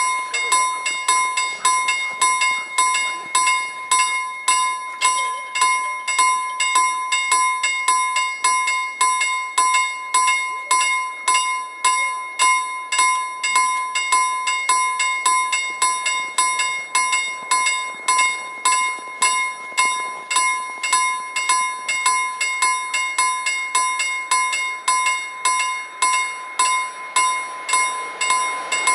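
Level crossing warning bell ringing in a steady, rapid series of strokes with one clear ringing tone, signalling a train approaching.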